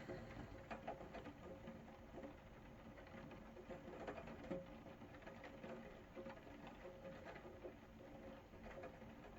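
Rain pattering faintly: a dense scatter of small drop ticks over a soft hiss.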